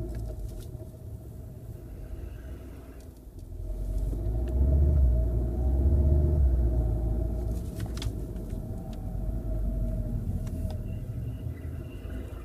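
Loud brake noise from a 2014 Volkswagen Golf GTI Mk7: a steady mid-pitched groaning tone over the car's low road rumble, with a second, fainter tone sliding upward in pitch midway while the rumble swells. The pads still have plenty of life and the rough discs have been machined, so the cause is unresolved.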